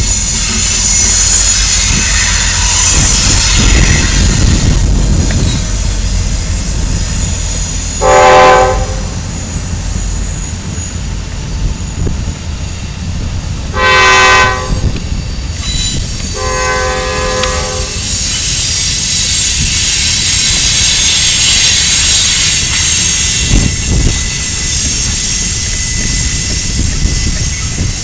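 Norfolk Southern freight train passing, led by locomotive 9288: a steady heavy rumble of the locomotive and freight cars rolling by, with high-pitched wheel noise. The locomotive's multi-note air horn sounds three times, the last blast the longest.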